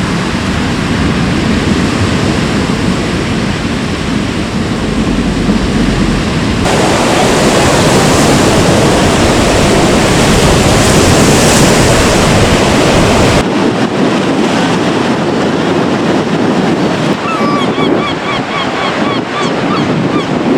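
Stormy Baltic Sea surf breaking and washing ashore, with strong wind buffeting the microphone; the sound changes abruptly twice. Near the end a run of short, high bird calls sounds over the surf.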